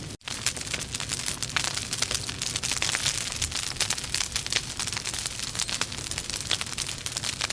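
Wood logs burning in a fireplace, crackling and popping with dense, irregular sharp snaps over a steady hiss, broken by a split-second gap just after the start.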